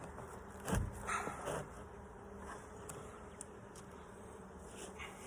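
Honeybees buzzing steadily around an opened hive, a low hum. Just under a second in, a single knock, with a couple of shorter scraping sounds right after.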